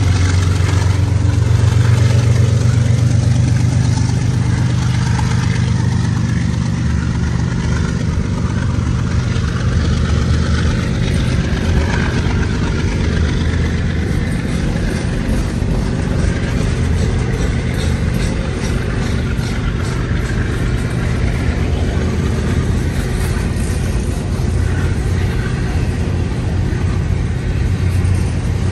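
CN GE GEVO diesel-electric locomotive (a distributed-power unit mid-train) running under power as it passes, its engine drone strongest in the first few seconds. Then the heavy rumble of intermodal freight cars rolling by, with a run of regular clicks from the wheels partway through.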